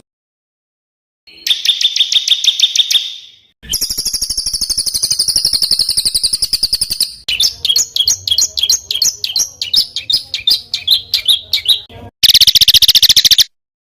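Spliced recordings of small songbirds singing fast, harsh runs of rapidly repeated chips and trills (tembakan kasar), used as masteran training song. There are four separate bursts with abrupt cuts and silent gaps: a short trill, a long steady rapid trill, a varied chattering run, then a brief loud trill near the end.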